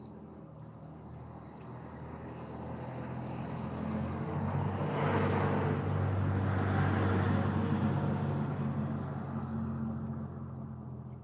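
A motor vehicle passing by, its engine hum growing louder to a peak about halfway through, then fading away.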